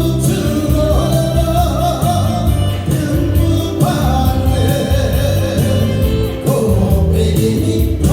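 A sung Korean song with full backing-track accompaniment: a vocal melody over sustained bass and band parts.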